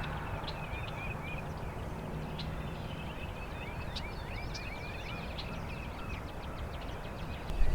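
Small birds chirping over a steady low background hum, with short high chirps scattered throughout.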